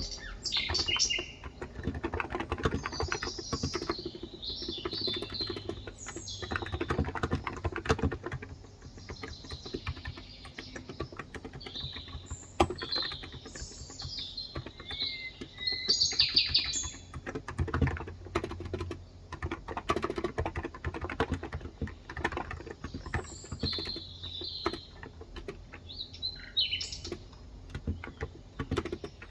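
Steady, continuous typing on a Cox Endeavor electrocapacitive (Topre-style) 35 g tenkeyless keyboard. Birds chirp on and off over the typing.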